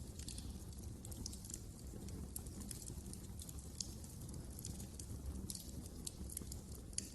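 Wood fire crackling in a fireplace: irregular small snaps and pops over a low steady rumble of flames, with a sharper pop near the end.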